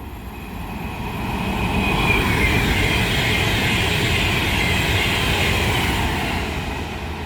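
Class 390 Pendolino electric train, unit 390044, passing through the station at speed: a rush of wheels and air that swells over the first two seconds, holds, and fades near the end.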